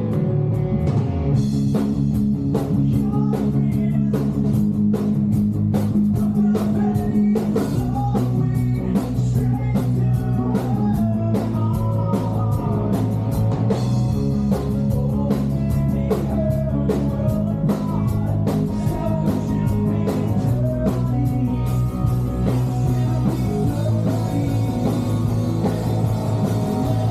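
Live emo rock band playing: distorted electric guitars, bass and drum kit, with a lead vocal singing over them. The drums come in about a second in and keep a steady beat.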